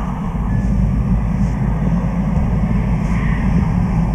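Steady low drone of a Honda Transalp 600's V-twin engine under way, mixed with wind rush.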